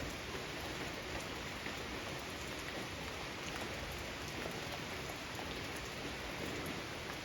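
Steady rain falling: a dense, even hiss with scattered faint ticks of individual drops.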